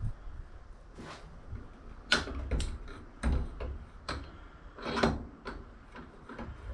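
A series of irregular knocks and clunks, about ten in a few seconds, some with a short ring, over a low steady rumble.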